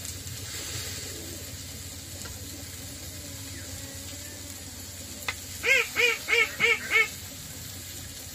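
A bird calling: a quick run of five calls, about three a second, some six seconds in, over a faint low hum.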